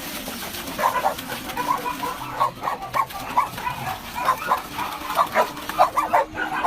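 An animal calling in a rapid run of short, repeated sounds, about four a second.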